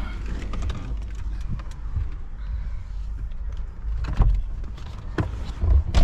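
Steady low rumble with a few sharp knocks and thuds, the loudest near the end: handling and movement noise from people getting out of a parked car.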